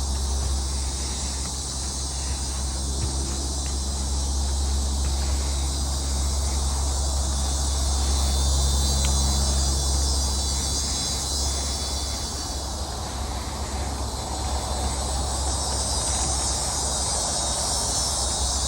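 Dense, steady chorus of swamp insects chirring at a high pitch, growing stronger near the end, over a constant low rumble.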